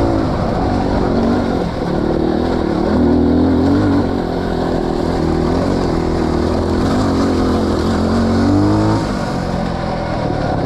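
Off-road motorcycle engine running under varying throttle on a trail, its pitch rising and falling, climbing to a higher rev about nine seconds in and then dropping back.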